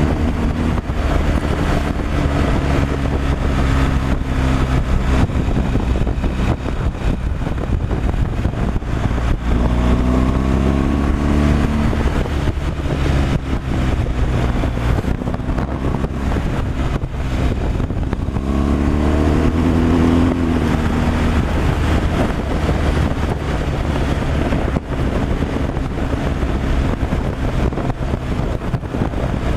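Vehicle engine and road noise while driving on a highway, a steady low engine hum under tyre and wind noise. Twice, around ten and twenty seconds in, a higher tone swells and then falls away.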